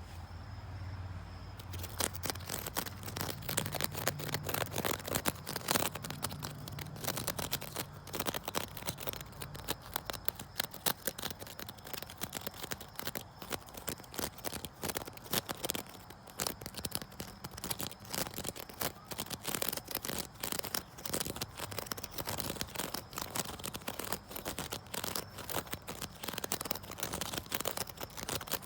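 Scratching and tapping on a wicker chair: a dense run of quick, scratchy strokes that starts about two seconds in.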